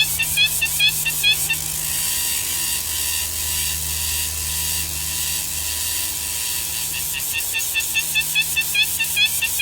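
Bird calls at a woodpecker's nest: short rising chirps repeated about two to three times a second, which give way about a second and a half in to a steady hiss for several seconds. The chirps return near the end, over a low steady hum.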